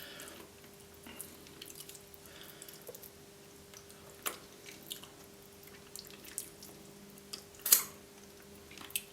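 Hands pulling roast chicken meat off the bone: faint wet squishing and small clicks, with a few sharper snaps, the loudest about three-quarters of the way through.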